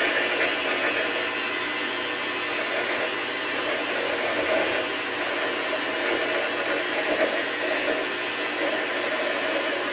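Metal lathe running steadily while turning a metal bar, a continuous motor-and-cutting whir with small rises and dips in level.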